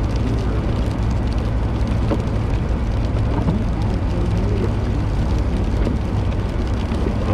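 Car engine and tires, a steady low rumble heard from inside the cabin, as the car struggles to climb a slippery hill; the driver blames the tires for the lack of grip.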